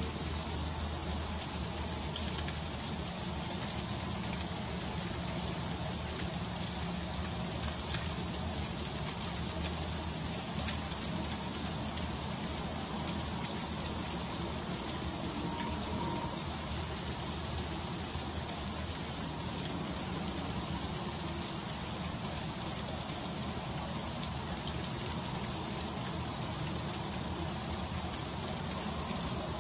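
Freezing rain falling steadily, a dense hiss of fine ticking drops landing on icy surfaces.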